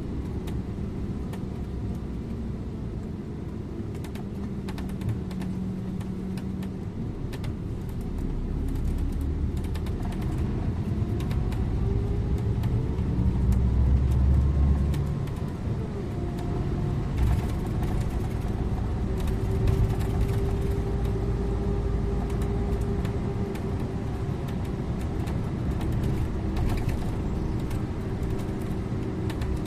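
Scania InterLink bus under way: engine and road rumble with the engine note rising and falling as it pulls through the gears, loudest about halfway through. Short clicks and rattles turn up here and there.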